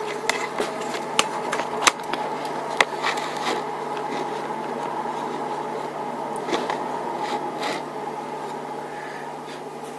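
A steady low hum with a few light clicks and taps scattered through it, most of them in the first few seconds.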